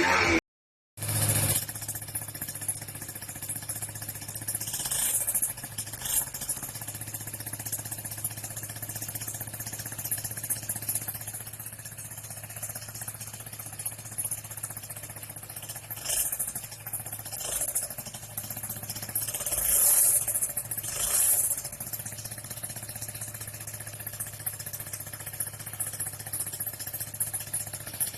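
Sanex QJ50 motorbike engine running through its exhaust, starting about a second in and idling steadily, with several short revs, the loudest near twenty seconds in.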